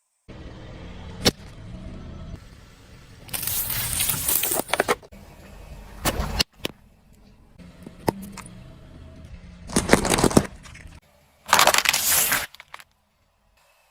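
Car tyre rolling over and crushing objects: several separate bursts of crunching and crackling with short gaps between them, over a low rumble from the car.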